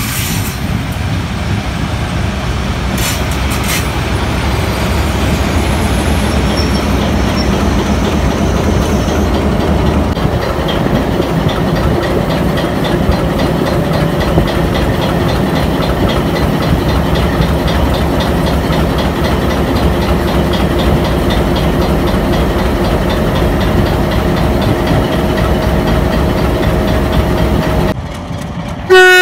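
Passenger train rolling past close by behind a PHA-20 diesel-electric locomotive: a heavy low rumble as the locomotive goes by, then a steady drone and the run of coaches on the rails. Near the end the sound breaks off and a locomotive horn starts.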